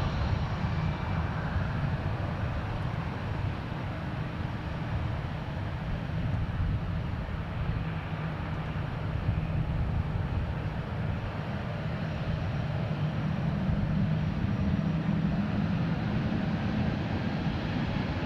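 Aircraft engines running with a steady low rumble, swelling slightly about two-thirds of the way through.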